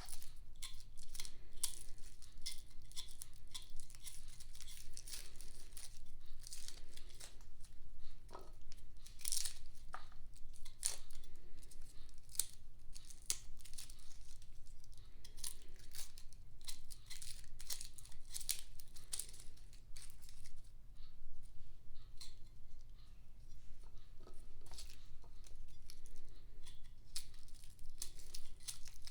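Dry, papery garlic skins crinkling and tearing as garlic is peeled and separated by hand, in a quick, irregular run of small rustles and crackles.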